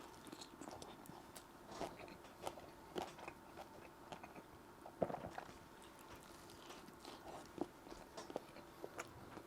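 Close-up chewing and mouth sounds of someone eating a saucy stacked burger: irregular wet smacks and soft crunches, the strongest about five seconds in.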